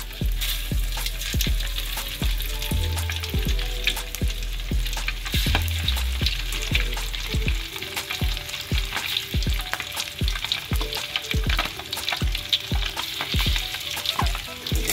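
Chicken pieces frying in hot oil in a wok: a steady crackling sizzle.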